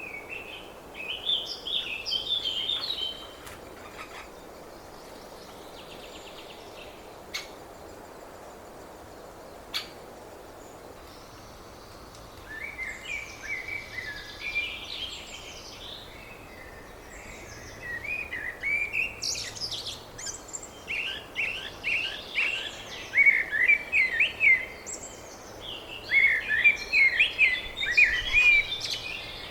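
Birds chirping in bursts of quick, high calls, sparse at first and growing busier and louder over the last ten seconds, over a steady background hiss.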